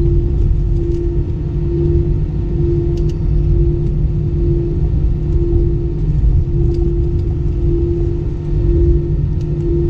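Steady low rumble of an Airbus A320 heard from inside the cabin, with a hum that swells and fades about once a second.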